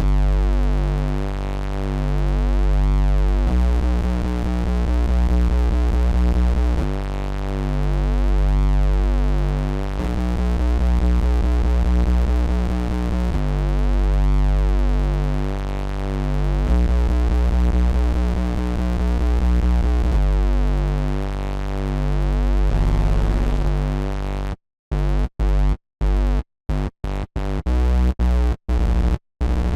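Electro house synth music: a heavy sustained bass with layered synth chords in a pattern that repeats every few seconds. About 25 seconds in, the sound turns into a stutter, chopped into short bursts with abrupt silent gaps.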